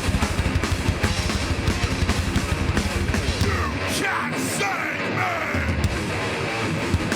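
Heavy hardcore band playing live and loud: distorted electric guitars over fast, pounding drums. The low drums drop away for about two seconds near the middle, then come back in.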